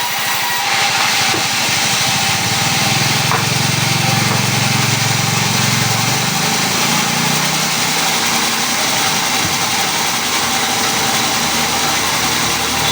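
A machine motor running steadily, with a low hum that swells for a few seconds in the middle.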